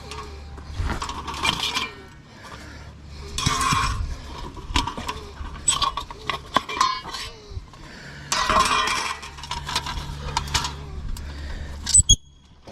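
Irregular clinking and knocking of cookware and utensils being handled, with two sharp metallic clinks that ring briefly near the end.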